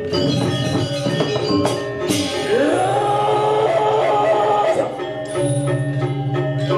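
Balinese gamelan music: metallophones ringing with dense cymbal clashes. Near the middle a single voice or tone rises and is held for about two seconds.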